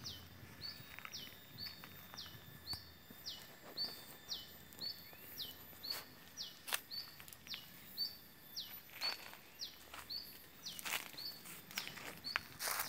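A bird repeating a single short, high falling note, about three calls every two seconds, steadily. Footsteps and rustling on dry leaf litter sound in between, with a few louder steps near the end.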